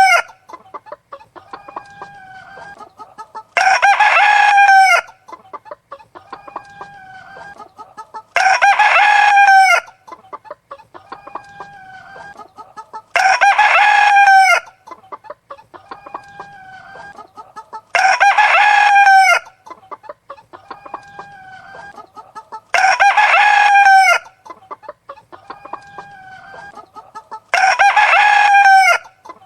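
A rooster crowing six times at even intervals about five seconds apart, each crow about a second and a half long and alike in shape, with hens clucking more quietly between crows.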